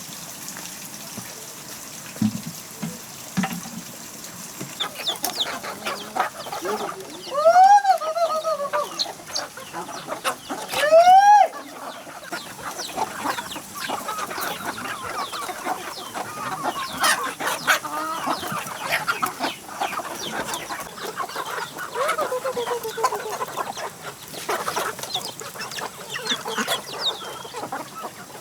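Chickens clucking and calling, with two loud arching calls about a third of the way in, a few seconds apart, above a steady scatter of clucks and small clicks.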